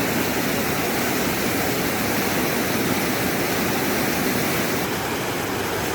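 Steady rushing of a waterfall, an even, unbroken noise of falling water.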